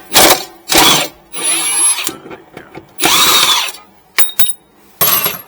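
Impact wrench working on a bolt under the car in about five short bursts, undoing an exhaust hanger fastening.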